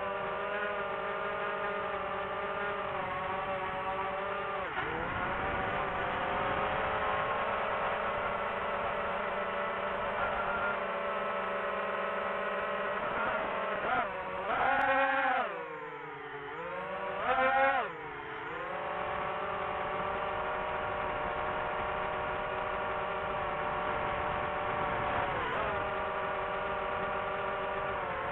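Quadcopter drone's motors and propellers whining steadily. The pitch dips once about a sixth of the way in, then drops and climbs back up twice around the middle as the motors change speed.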